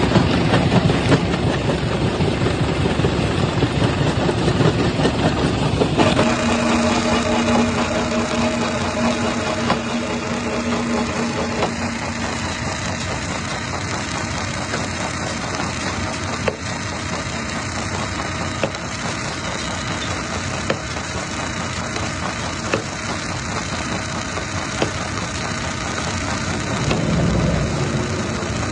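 Stone crushing machine running: a dense, steady mechanical din with scattered sharp knocks, as of rock being broken. About six seconds in, the sound changes abruptly and a steady hum joins it for several seconds.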